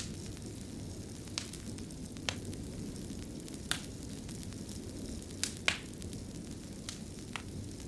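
Wood fire burning in a stone fireplace: a steady low rush with sharp crackling pops every second or so, two of them close together a little past the middle.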